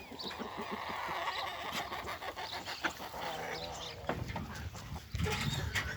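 A farm animal calling: a long, wavering cry lasting about four seconds, followed by lower, rougher sounds near the end.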